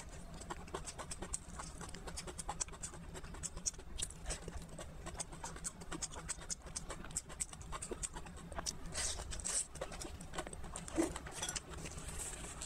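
Close-miked chewing of a thin pancake roll with egg filling: a steady run of small wet mouth clicks and soft crackles.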